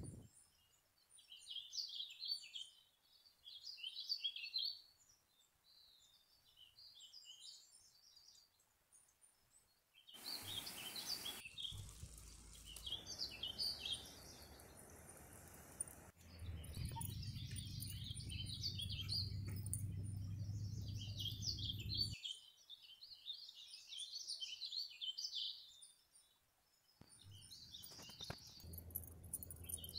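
Small birds chirping and singing in short repeated phrases. A steady low rumble comes in twice near the middle, the second time for several seconds.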